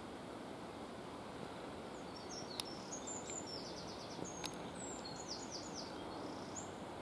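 Steady outdoor background noise with a small bird singing a quick run of high chirps and trills from about two seconds in, and a sharp click twice.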